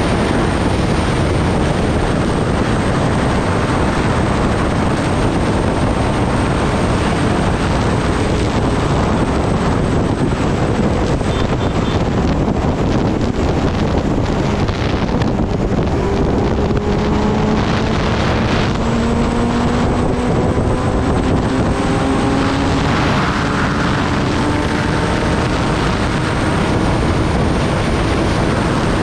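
Kawasaki Ninja ZX-10R inline-four engine running under heavy wind rush on the microphone while riding. From about halfway the engine note rises slowly and steadily in pitch as the bike gathers speed.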